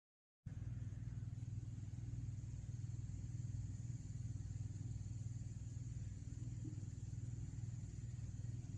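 Faint, steady low rumble with a thin high hiss above it, with no distinct calls or knocks.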